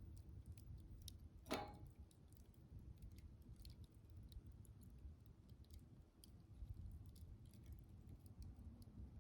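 Wood campfire crackling softly, with scattered small pops and one louder crack about a second and a half in.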